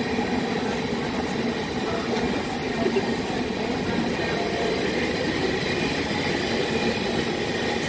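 Hurricane wind simulator's blowers running, a steady loud rush of air.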